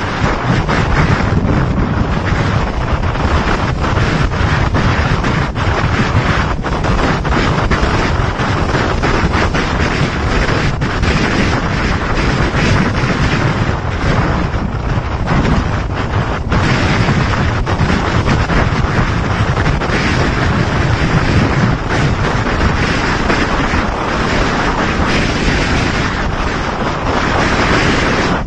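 Storm wind blasting over the microphone at sea: a loud, steady rush broken by frequent gusts.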